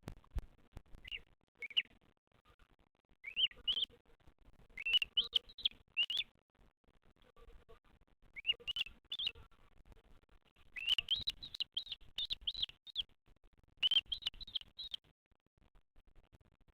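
Bearded vulture chick calling: groups of short, high, rising-and-falling chirps in bursts, with a longer run of about eight in a row around two-thirds of the way in. Faint scattered clicks sit between the calls.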